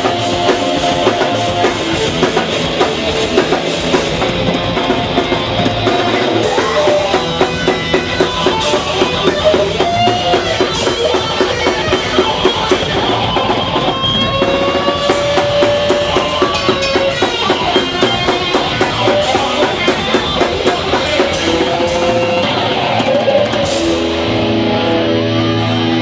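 Hardcore punk band playing live, with a drum kit and electric guitars. Near the end the drums drop away and held guitar chords ring on.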